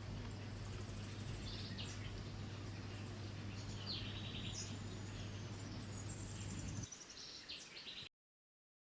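Small songbirds chirping and trilling in short, scattered calls over a steady low hum. The hum stops about seven seconds in, and all sound cuts off about a second later.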